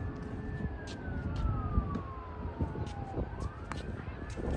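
A distant emergency-vehicle siren on a slow wail, its pitch falling over about three seconds and then rising again, over a steady low rumble of wind on the microphone. A few sharp knocks stand out, one of them near the end.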